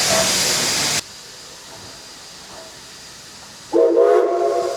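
Steam locomotive hissing loudly as it vents steam; the hiss cuts off suddenly about a second in. Near the end the steam whistle sounds, a chord of several tones that fades away.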